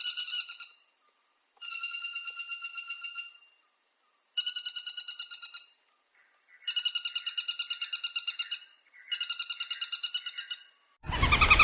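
Woodpecker rattling calls: fast runs of evenly spaced, high, piping notes at about eight a second, each run lasting one and a half to two seconds, repeated with short pauses. Just before the end a louder, lower call cuts in suddenly.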